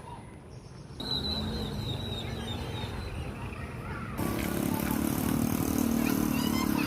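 Outdoor ambience: a bird chirps over steady traffic noise, and from about four seconds in a vehicle engine hum becomes the loudest sound.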